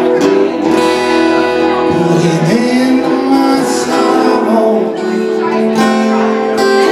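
Acoustic guitar played live with singing, part of a folk-blues song.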